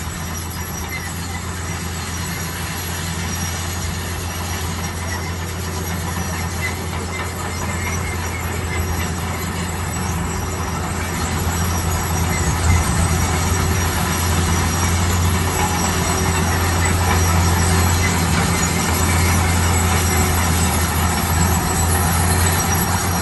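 Heavy diesel construction machinery running: a steady low engine drone over dense mechanical noise, growing gradually louder.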